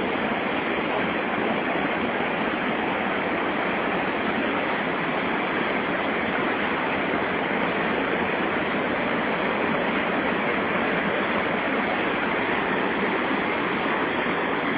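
Rapids of the Santo Antônio falls on the Madeira River rushing steadily: an even, unbroken wash of water noise.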